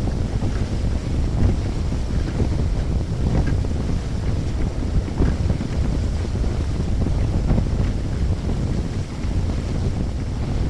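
Wind blowing across the microphone, a steady low rumble with uneven gusting.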